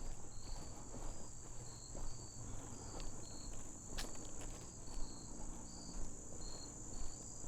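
Insects chirping outdoors: a continuous high-pitched drone with short chirps repeating over it, and a faint low hum beneath. A single click sounds about four seconds in.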